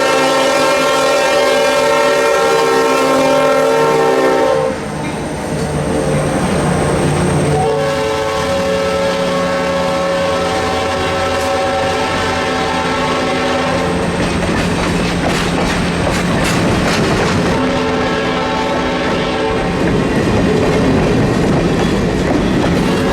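The chime steam whistle of C&O 2-6-6-2 Mallet 1309 blowing long blasts: one at the start, a longer one after a short break, and a weaker, shorter one later. Between the blasts the train's running noise and rail clatter are heard.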